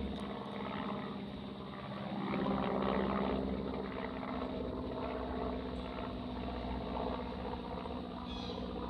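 Aircraft engine drone, steady, with a low humming tone; it swells slightly a little over two seconds in.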